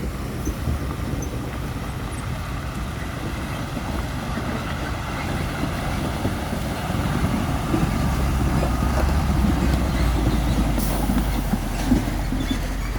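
Heavy truck running, a steady deep rumble with road noise that grows louder about two-thirds of the way in, and a single sharp knock near the end.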